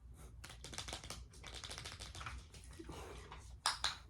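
A young puppy moving about, making a rapid run of light clicks and taps, with two sharper knocks near the end.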